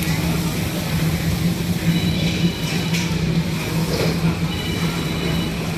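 A steady low machine hum over a constant background of noise, with a couple of brief light clinks about three and four seconds in.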